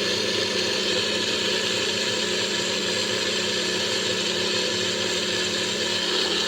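Electric kitchen blender running steadily at one constant speed, its motor hum and the whirl of the jar unchanging.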